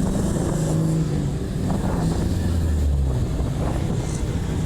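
Car engines running at low speed as cars move through the lot: a steady low engine drone that deepens and grows stronger about a second and a half in.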